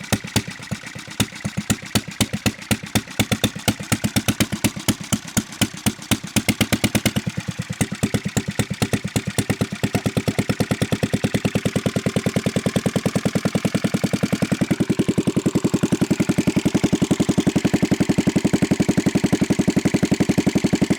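Lanz Bulldog's single-cylinder hot-bulb two-stroke engine running with a slow, even beat of separate firing strokes. From about seven seconds in the beat quickens, settling into a faster steady rhythm for the last few seconds.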